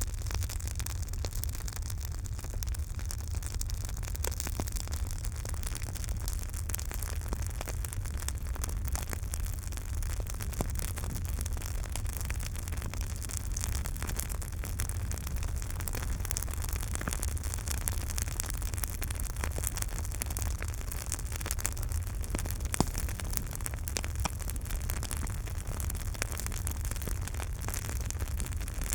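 Campfire burning: constant fine crackling over a steady low rumble, with two louder pops, about 11 and 23 seconds in.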